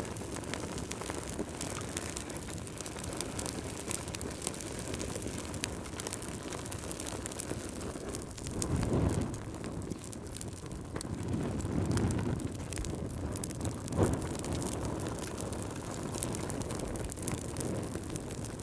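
Campfire burning: a steady low rumble of flames with frequent small crackles and one sharper pop about three-quarters of the way through. Twice in the middle the low rumble swells up for a second or two.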